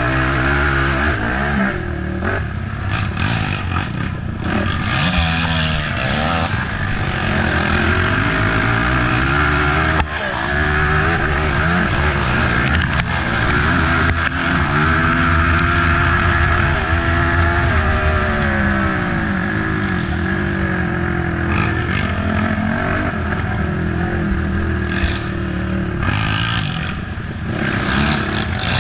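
Race ATV engine being ridden hard, revving up and falling back again and again as the throttle is worked over the trail. There are scattered clattering knocks from the rough ride.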